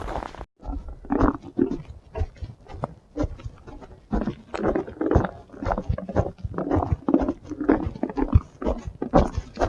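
Heavy, rapid breathing close to the microphone: a hiker panting hard on a steep, high-altitude climb.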